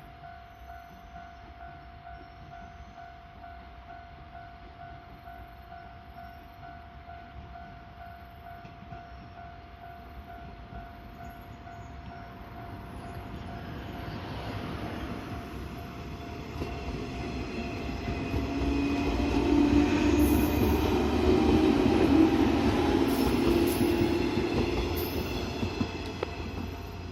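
A Japanese level-crossing warning bell ringing steadily throughout while a train approaches and passes. The train is loudest about two-thirds of the way in and fades near the end.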